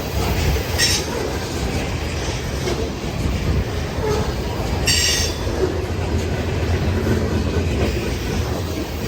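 CPKC unit grain train rolling past, a steady rumble with the clatter of wheels on rail joints. Two brief high wheel squeals cut through, about a second in and again about five seconds in.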